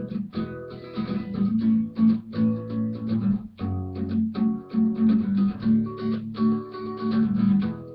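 Guitar strummed in a steady, even rhythm, moving through a chord progression.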